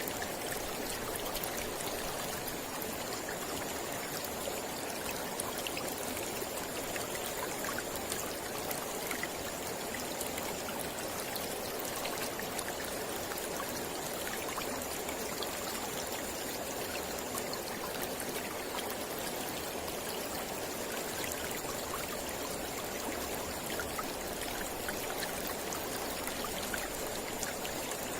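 Mountain river flowing steadily over rocks, a continuous rush of water with small splashes and trickles through it.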